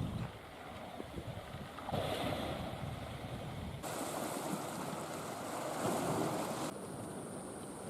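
Outdoor wind noise on the microphone mixed with the wash of lake water, a steady rushing hiss. It changes abruptly about two, four and seven seconds in, brighter and hissier in the middle stretch.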